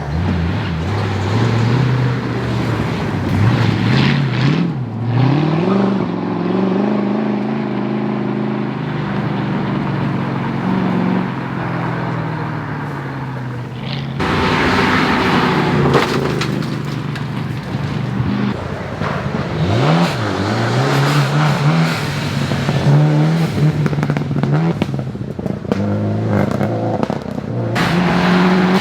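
Rally car engines at full throttle on a forest stage, the pitch climbing and dropping again and again as the drivers change gear and lift for corners. About halfway through, a louder rush of noise with crackles comes in as a car passes close.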